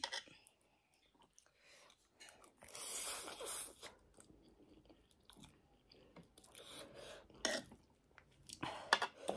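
Close-miked mukbang eating sounds: a person chewing and biting ramen noodles and buff sausage, with wet mouth clicks. There is a longer hissing stretch about three seconds in and a few louder bursts near the end.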